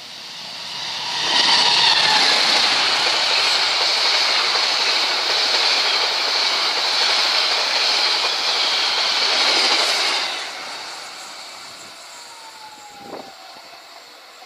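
Long passenger train hauled by a diesel locomotive passing close by on curved track. The rumble and rattle of wheels on rails build over the first second or so, stay loud for about nine seconds as the coaches go by, then fade away.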